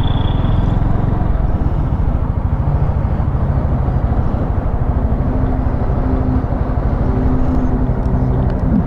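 Motorcycle engine running at low revs, with a short high beep at the very start.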